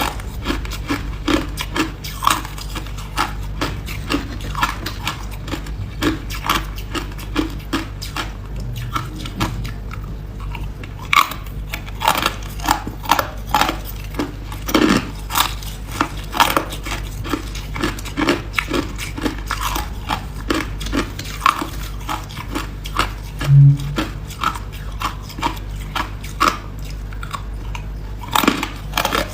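Hard ice being bitten and chewed close to the microphone: a long run of sharp, irregular crunches.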